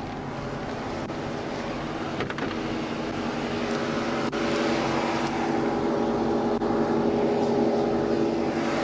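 Steady hum of a parked patrol car idling, with an even hiss over it, slowly getting louder, and a few faint clicks.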